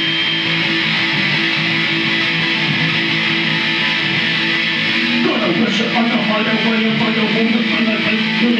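Guitars playing and strumming chords live, with no drums. The chord shifts about five seconds in.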